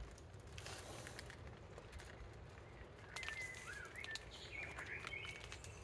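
Quiet outdoor ambience with a steady low wind rumble and a few faint clicks; about three seconds in, a short run of chirping bird calls comes in.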